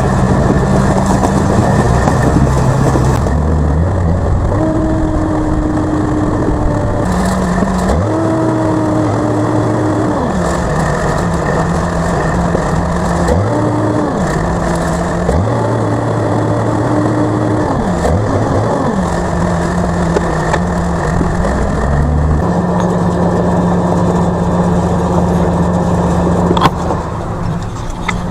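A vehicle engine running steadily, its revs rising and falling back about five times through the middle stretch before settling into a steady run again.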